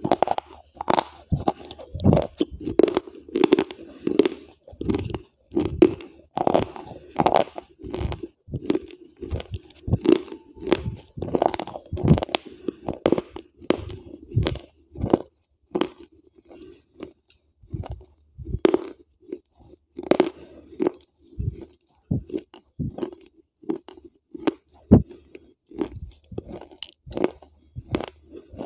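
A person chewing crunchy food with a microphone held right at the lips: a quick run of sharp crunches that thins out about halfway through into slower, more spaced chewing.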